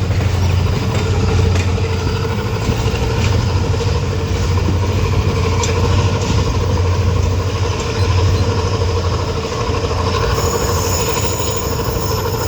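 Passenger train running, heard from aboard: wheels on the rails with scattered light clicks, a steady high squeal and a low drone underneath.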